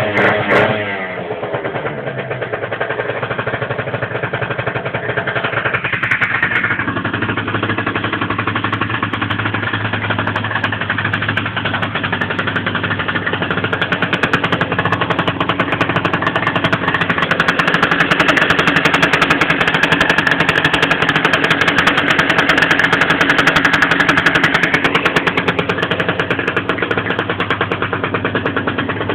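Gilera Runner scooter engine settling from a blip of revs into a steady idle with a rapid, even pulse, rising a little about six seconds in and again for a stretch past the middle. The owner calls the scooter badly tuned.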